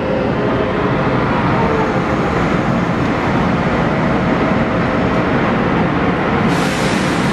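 Daewoo EMU 500 electric train pulling slowly into the platform and coming to a stop, with a steady heavy rumble and a faint whine that falls in pitch early on. Near the end a sudden loud hiss starts.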